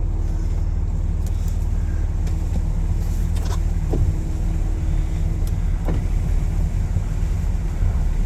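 Vehicle engine and road noise heard from inside the cab while driving: a steady low drone, with a few faint clicks around the middle.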